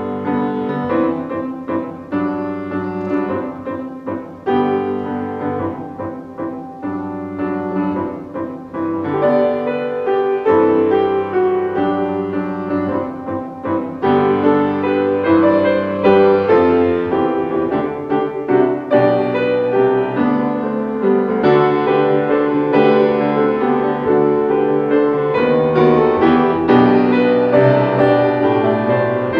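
Solo piano playing slow chords under a melody, each note struck and left to ring.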